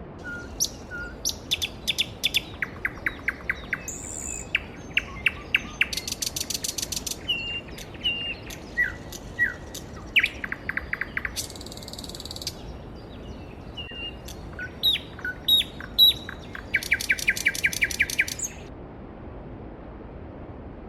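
Several birds singing and calling in quick chirps and trills over the steady rush of a flowing mountain stream. The birdsong stops a little before the end, leaving only the stream.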